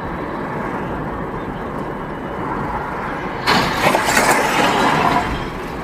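Steady car road noise, then about three and a half seconds in a sudden loud crash: a burst of crunching and breaking noise lasting a second or two, typical of a vehicle collision.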